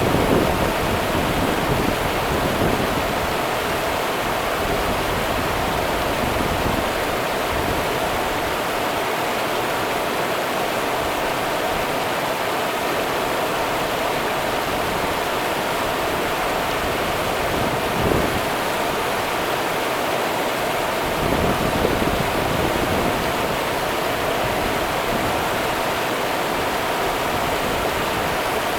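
Rio Grande river water rushing steadily, an even noise without pauses, with a few brief low rumbles about two-thirds of the way through.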